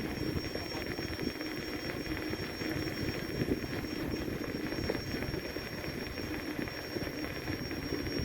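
Steady low rumble with a faint hum, without clear breaks or distinct events.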